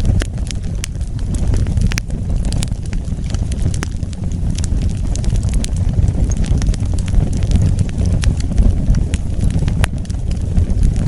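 Wood fire burning: a steady low rumble of the flames with frequent sharp crackles and pops scattered through it.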